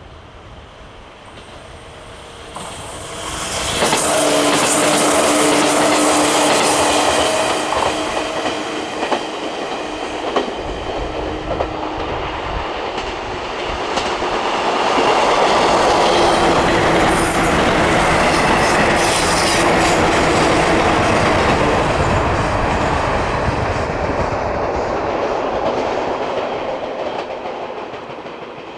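A 115 series electric train passing close by. Its wheels clack over the rail joints under a steady hum. The sound grows loud about four seconds in, swells again midway through, and fades over the last few seconds.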